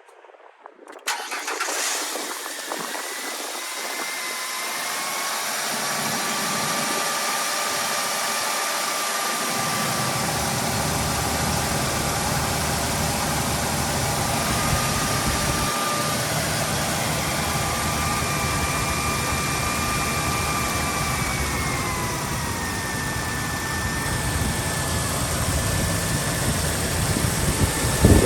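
2005 Ford Explorer engine cold-started, catching about a second in, then idling steadily. A high whine runs over the idle and steps down in pitch about three-quarters of the way through.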